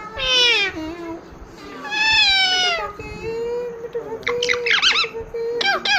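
Pet parakeet calling: two drawn-out, meow-like calls falling in pitch, about two seconds apart, then quick high warbling chirps in the second half.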